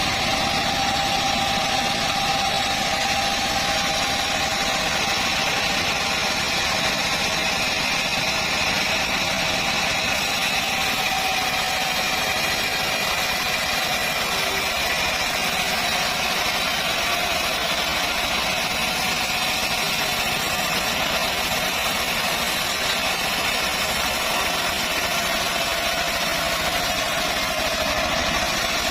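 Band sawmill (gergaji selendang) running steadily on acacia wood: a continuous engine drone with a steady high whine that sags slightly in pitch midway and picks up again near the end.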